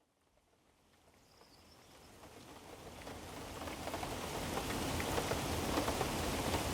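Steady rain fading in from silence over the first few seconds, then falling evenly with the patter of individual drops.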